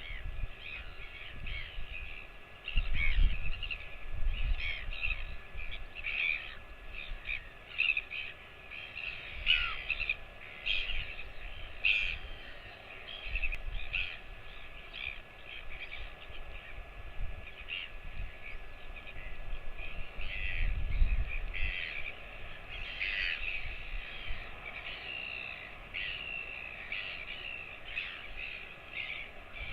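Bird calls repeated many times in quick succession, short and some falling in pitch, over a steady hiss of rain, with occasional low rumbles.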